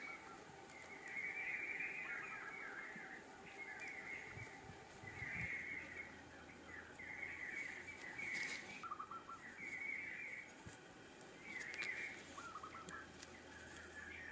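A bird calling over and over in short chattering bursts, about seven of them, one every second and a half to two seconds.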